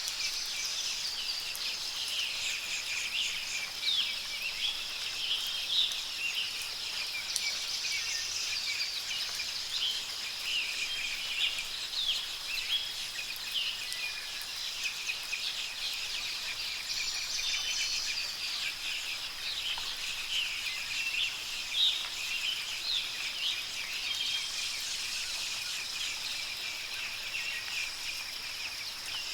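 Many small birds chirping and calling in quick, overlapping notes over a steady, high-pitched insect drone.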